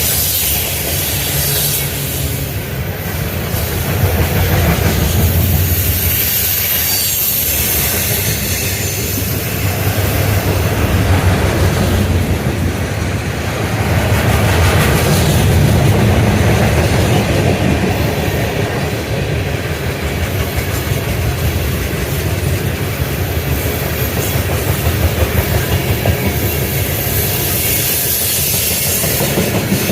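Freight train rolling past, its cars' wheels clacking over the rail joints in a steady rumble, with a quicker run of clacks near the end.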